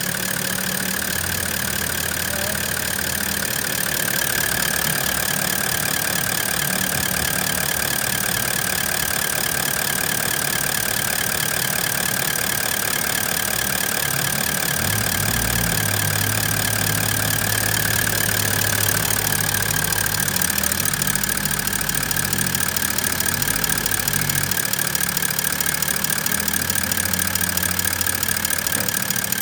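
Toyota LandCruiser 4.5-litre V8 diesel engine idling steadily, with a steady high whine above the rapid diesel clatter.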